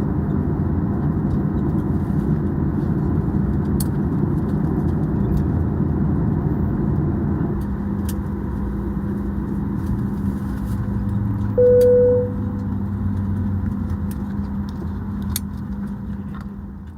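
Boeing 737-800 cabin noise while taxiing to a stop: a steady jet-engine rumble and hum. About halfway through, a single cabin chime sounds briefly, the chime for the seatbelt sign going off at the gate. The rumble dies away near the end.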